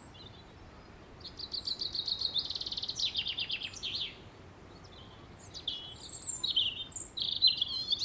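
European robin singing: two phrases of high, quick notes and trills, the first starting about a second in and the second about halfway through.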